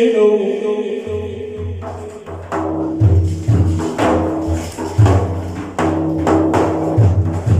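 Hand-struck frame drums with jingles playing a rhythm of beats between verses of Islamic praise chant. The singer's last held note fades in the first second, before the drumming takes over.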